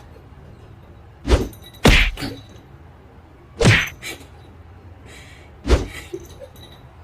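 Four loud thuds, unevenly spaced, each followed by a fainter knock.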